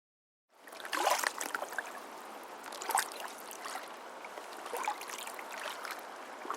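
Water running, with a splash-like surge about every two seconds.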